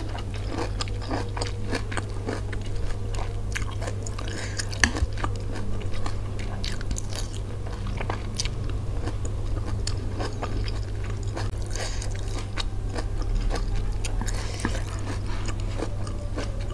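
Close-up chewing of Indomie goreng fried instant noodles and fresh tomato slices: a steady run of small mouth clicks and chewing sounds.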